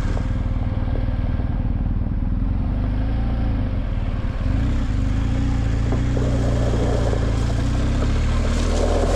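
Motorcycle engine running at a fairly steady speed, a little louder from about halfway through.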